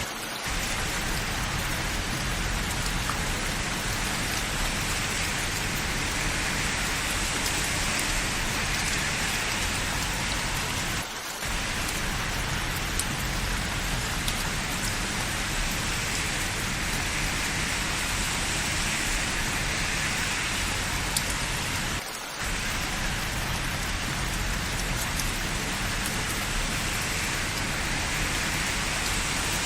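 Steady rain falling, an even hiss of drops. The level dips briefly twice, about eleven seconds apart.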